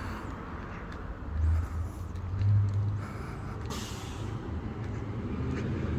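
Street traffic: a steady low rumble of vehicles with two louder swells in the first half and a short hiss near the middle.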